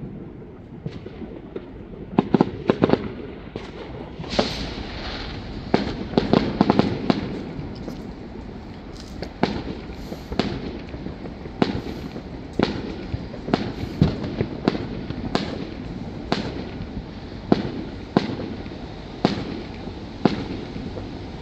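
Bonfire Night fireworks going off: a string of sharp bangs, roughly one a second and thicker in the first third, over a steady rumble of more distant fireworks.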